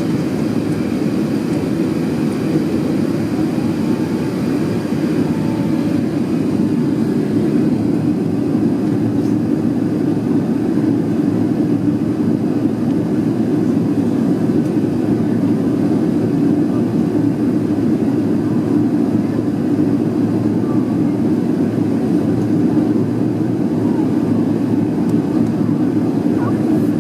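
Steady roar of an Airbus A380's Rolls-Royce Trent 900 engines and rushing air, heard inside the passenger cabin, with a deep, even rumble that holds level throughout.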